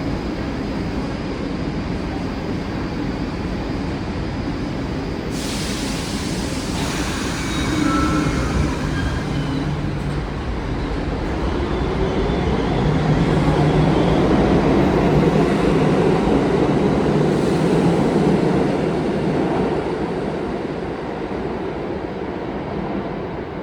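Passenger train running on the rails: a steady rumble with a low hum that swells in the middle and eases off near the end.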